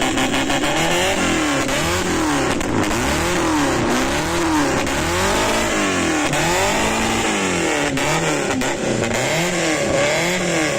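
Maruti Suzuki Gypsy engine being revved again and again through an Automech high-performance aftermarket exhaust. The exhaust note rises and falls about once a second, the blips coming a little quicker near the end.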